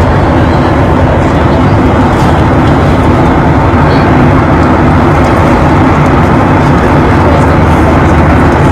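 Steady airliner cabin noise: a loud, even rush of engine and airflow with a low hum underneath.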